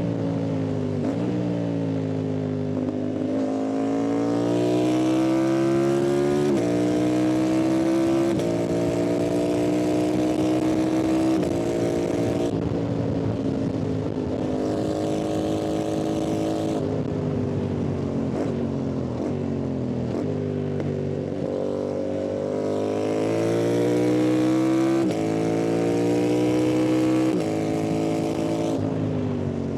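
Yamaha MT-07 parallel-twin motorcycle engine with an open exhaust under hard acceleration, pitch rising in each gear and dropping sharply at each of several upshifts. About halfway through it eases off and the pitch falls for several seconds, then it pulls up through the gears again.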